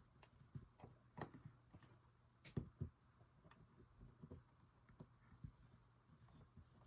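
Faint, scattered light clicks and taps of small metal parts being handled: small screws being set into a fishing reel's side plate, about a dozen irregular ticks, the loudest pair about two and a half seconds in.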